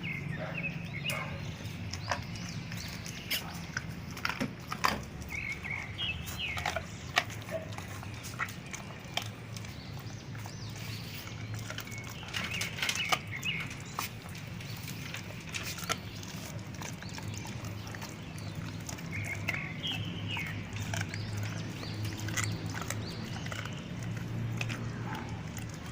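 Dogs gnawing and crunching raw pork feet and chicken feet: irregular sharp cracks and clicks of bone and cartilage breaking between their teeth.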